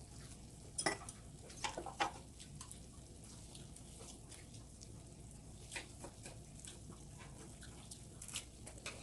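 Scattered light clicks and taps of eating utensils against dishes at a meal: a few in the first two seconds and a couple more later on.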